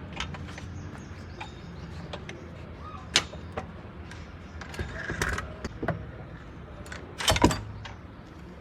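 Scattered metallic clinks and knocks of parts and tools being handled, with a louder clatter about seven seconds in, over a steady low hum.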